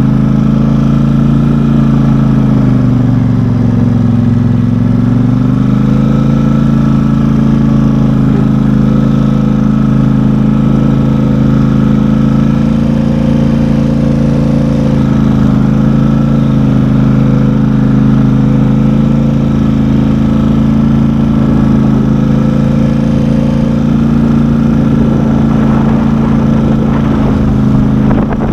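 Engine of a four-wheel-drive off-road vehicle running steadily while driving, its pitch dipping briefly a few seconds in before settling back.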